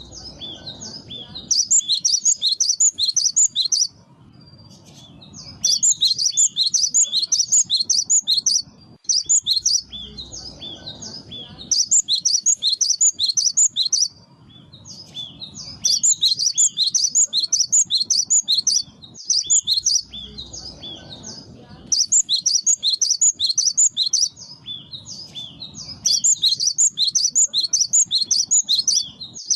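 Cinereous tit (gelatik batu) singing: phrases of rapid, high, repeated chattering notes, each lasting a second or two to three seconds, coming again and again with short pauses between.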